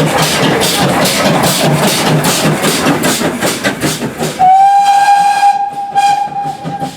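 GWR tank steam locomotive working hard, its exhaust beating steadily at about three or four beats a second. About four seconds in it gives one long, steady blast on its whistle, which cuts off abruptly at the end.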